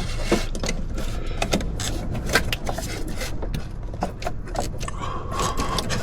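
Metal hand tools clicking and clinking irregularly against parts while working in a car's engine bay, over a steady low rumble.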